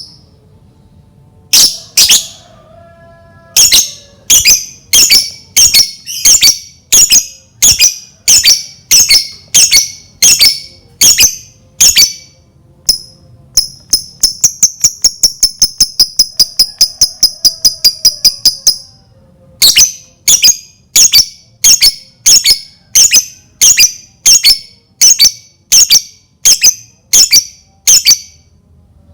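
Lovebird calling with shrill, sharp chirps about two a second; about halfway through it breaks into a fast, continuous chattering trill (the "ngekek") for some five seconds, then goes back to single chirps. This is a lure call, used to set other lovebirds calling.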